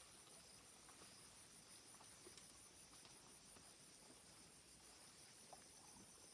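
Faint insect chorus: a steady, high-pitched trilling, with a few soft ticks.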